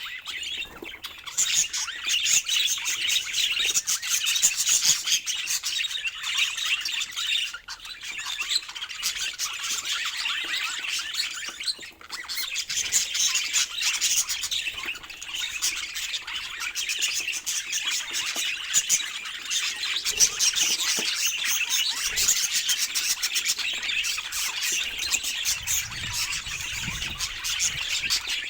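Budgerigars chattering continuously with rapid warbling chirps and squawks.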